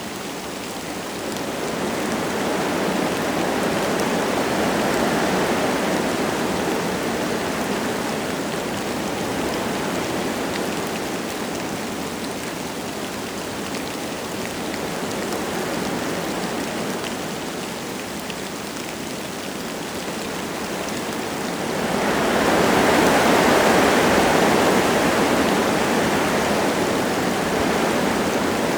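Wind gusting through forest trees, swelling and easing in slow waves, with the strongest gust about three-quarters of the way through, and light rain falling.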